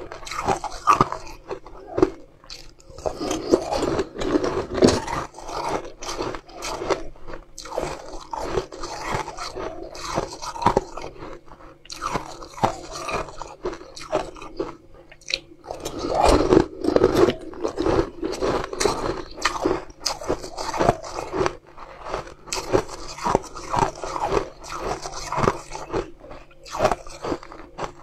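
Someone biting into and chewing frosted blue food balls taken from a spoon: a dense run of sharp, irregular crunches mixed with chewing.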